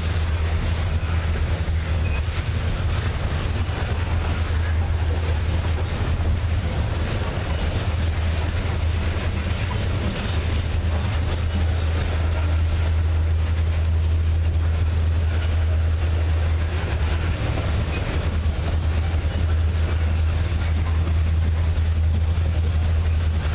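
Diesel-electric freight locomotive idling: a steady low engine hum that does not change.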